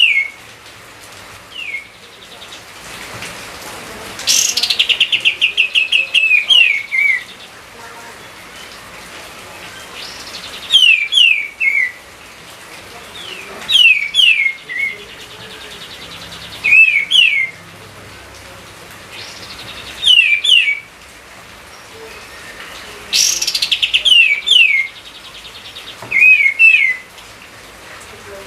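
A songbird singing: short phrases of quick down-slurred whistles repeated every few seconds, twice opening with a fast rattling trill.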